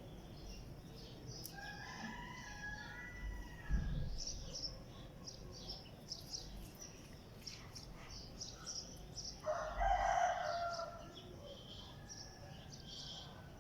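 Birds calling outdoors: many short high chirps throughout, a drawn-out call from about one and a half to three seconds in, and a louder, harsher call about nine and a half seconds in. A brief low thump comes about four seconds in.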